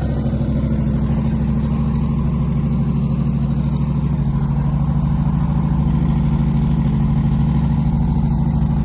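Car engine idling with a deep, fast-pulsing exhaust note that grows a little louder about six seconds in.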